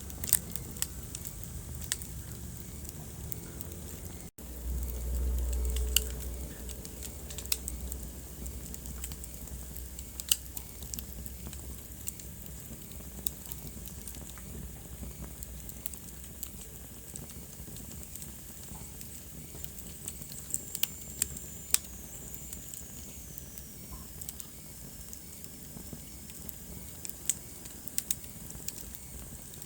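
Wood fire crackling in a fireplace, with sharp pops at irregular intervals over a faint steady hiss. A low rumble swells for a few seconds near the start.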